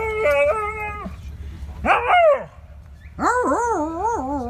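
A dog howling and whining in drawn-out, wavering calls: a long one with stepping pitch, a short falling one about two seconds in, and a wavering one near the end.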